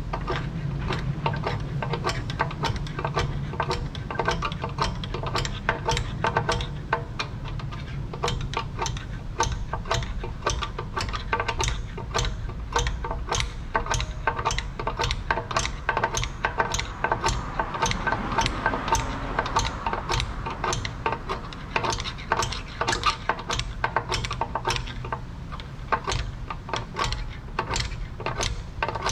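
A steady run of sharp mechanical clicks, about two a second, over a low hum.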